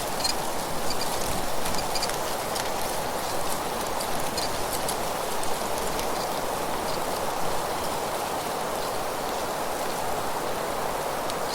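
Wind through trees with dry fallen leaves rustling: a steady rushing noise with scattered small crackles.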